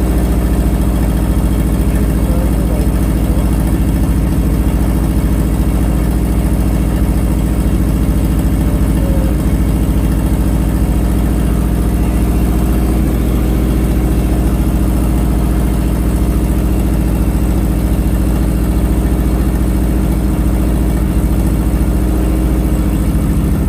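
1987 Nissan 200SX S12's engine idling steadily, running on a freshly uploaded ECU tune with adjusted mass airflow sensor settings.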